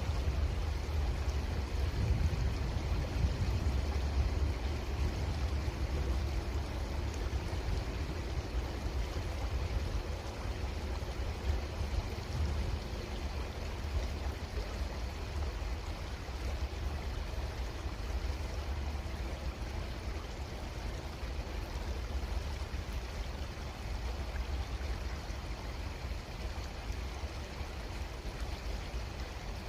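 Creek water flowing steadily, an even rushing noise with a heavy low rumble underneath that eases slightly partway through.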